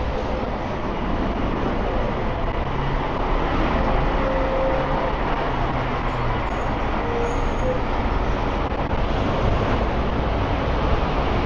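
Steady city street traffic noise, passing vehicles blending into one constant hiss with a few faint short tones over it.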